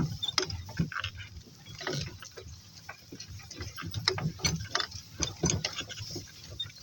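Irregular crunching, rustling and clicking of tall grass as donkeys are walked through it and grab mouthfuls to eat.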